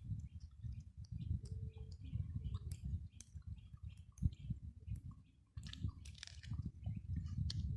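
Someone chewing and biting food close to the microphone, with irregular sharp crunchy clicks throughout and a brief pause about five seconds in.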